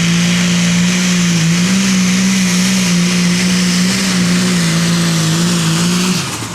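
Competition pulling vehicle's engine held at wide-open throttle during a pull, a loud steady high-revving note with a little waver in pitch, cutting back sharply about six seconds in.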